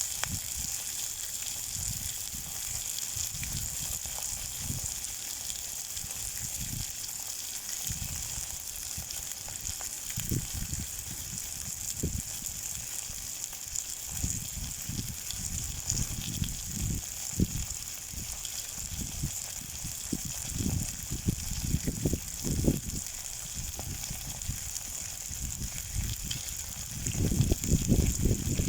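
Marinated chicken thighs sizzling in a frying pan as a steady hiss. Low uneven rumbles underneath grow heavier near the end.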